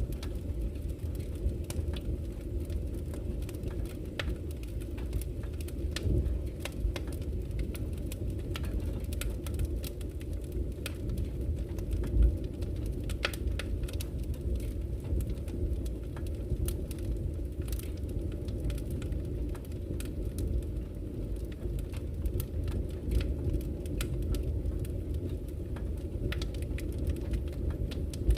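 Wood campfire crackling with irregular sharp pops, one louder pop about twelve seconds in, over a steady low rush of flowing river water.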